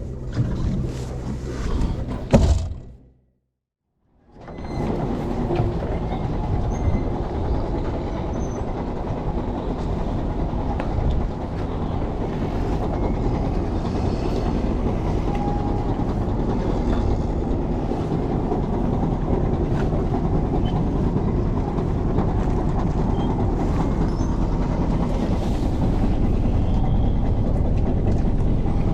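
A sharp knock about two seconds in, then a cut to silence, then a steady rattling vehicle rumble that grows slowly louder.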